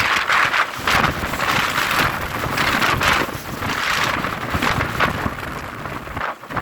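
Strong wind blowing hard across the microphone, coming in loud gusts that rise and fall every second or so.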